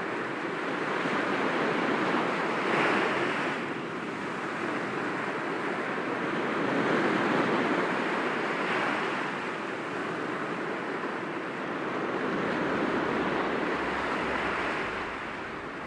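Sea waves breaking against rocks, a continuous wash that swells and eases in slow surges every few seconds.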